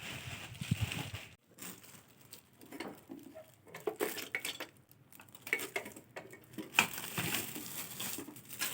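Irregular clinks and taps of hard objects being handled, with a low knock about a second in and a sharper tap about seven seconds in.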